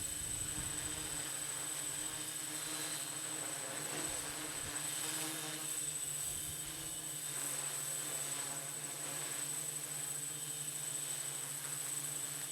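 Hexcopter on a Tarot T960 frame with six T-Motor electric motors and 14-inch propellers, droning steadily as it holds a hover in strong, gusty wind. Wind buffets the microphone with low rumbling gusts near the start and again about four and a half seconds in.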